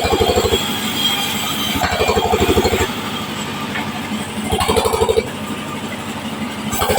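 Power wood saw running while cutting waru (sea hibiscus) wood, with a fast, even low pulsing under it. A louder, tone-edged stretch of cutting comes back about every two to three seconds, near the start, around two seconds in, and just before five seconds.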